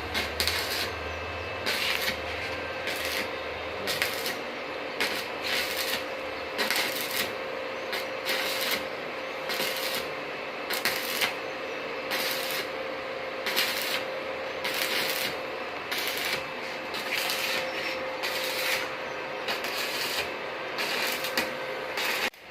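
Metalworking noise: a steady hiss with irregular louder crackling bursts about every half second to a second.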